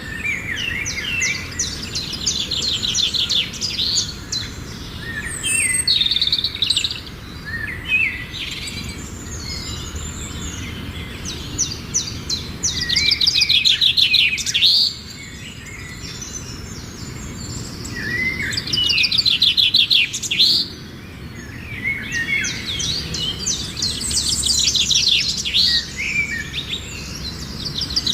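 Forest birds singing, with fast trilled phrases of about a second or two repeated every few seconds, mixed with shorter chirps and calls, over steady low background noise.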